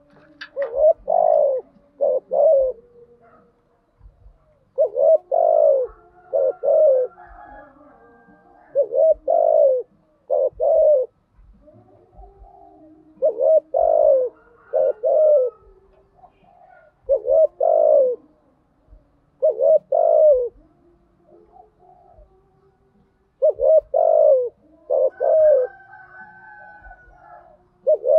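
Spotted dove cooing: short phrases of three or four low coos, repeated about every three to four seconds. Fainter chirps of other birds come in between the phrases.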